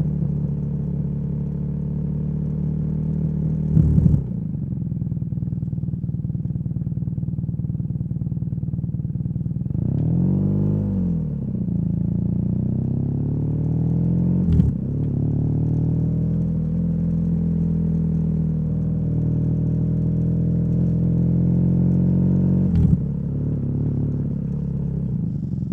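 BMW R nineT's boxer twin running through a Competition Werkes slip-on exhaust while being ridden. The engine note holds fairly steady, swells up and back down in pitch about ten seconds in, and is marked by three brief sharp knocks along the way.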